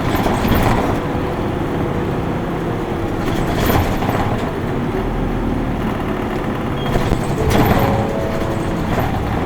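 Isuzu Erga Mio city bus running under way, its diesel engine and road noise heard from inside the cabin, with three brief hissing or rattling bursts, about half a second, four and seven and a half seconds in.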